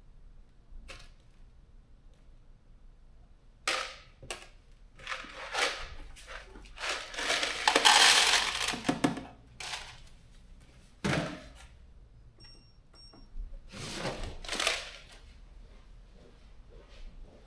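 Loose metal bolts and washers clattering and clinking as they are handled, with several separate knocks and a longer, louder rattle about eight seconds in.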